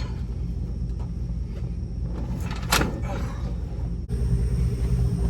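A vehicle idling steadily with a low hum, and a single sharp knock about two and a half seconds in.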